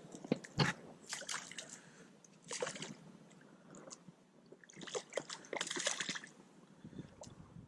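Short bouts of splashing and sloshing water, with a few sharp knocks near the start.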